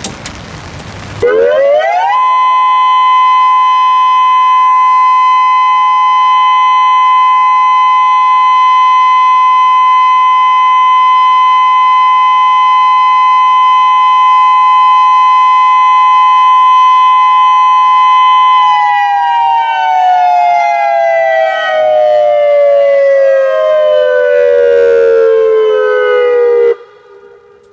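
Federal Signal Modulator 6024B electronic outdoor warning siren sounding a test of its steady alert tone. It rises quickly to pitch about a second in, holds one steady tone for about sixteen seconds, then slides down in pitch for about eight seconds before cutting off shortly before the end.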